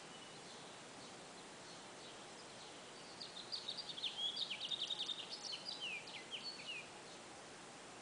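A songbird sings one rapid, jumbled phrase of quick, high chirping notes, some sliding downward near the end. The phrase starts about three seconds in and lasts about three and a half seconds, over a faint steady background hiss.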